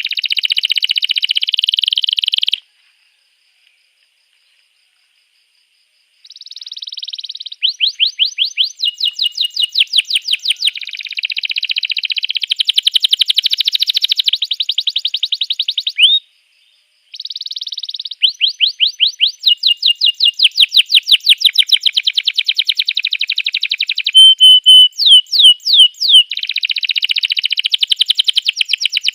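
Domestic canary singing: a long song of fast trills and rolls of repeated whistled notes, each run at a different pitch and speed. The song breaks off for about three and a half seconds near the start and briefly just past the middle. A run of sharp falling notes, the loudest in the song, comes about two-thirds of the way through.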